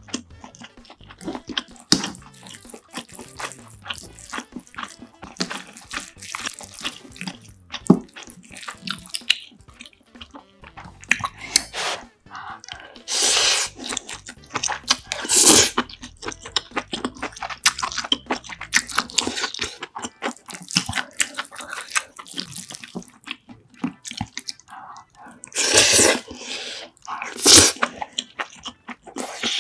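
Close-miked wet chewing and mouth sounds of a person eating rice and side dishes, with many small clicks and a few louder, noisier bursts about halfway through and near the end.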